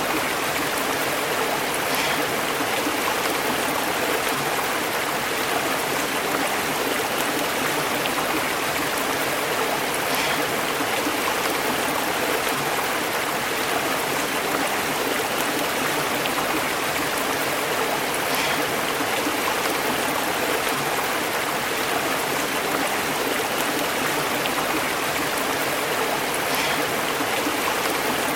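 A stream flowing and bubbling over rocks, a steady, unbroken burble of running water.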